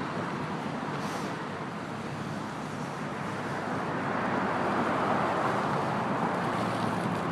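Steady roadway traffic: the hiss of car tyres and engines streaming past, swelling louder a few seconds in as vehicles go by, then easing slightly.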